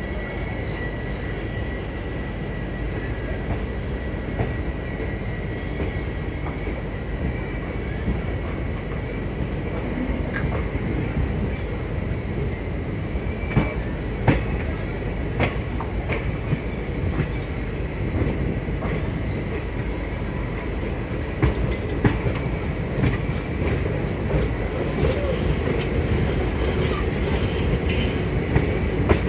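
Passenger train running along the track: a steady rumble of wheels on rails, with sharp clicks scattered through it that come more often from about halfway through.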